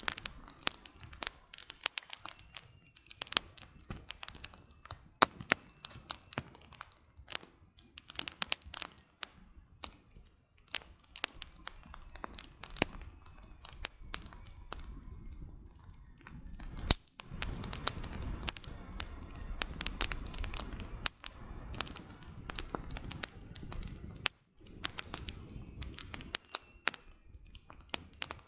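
Wood fire burning, with dense irregular crackles and sharp pops of burning firewood. From about 17 to 24 s a louder, low rumbling roar swells under the crackling, then drops away.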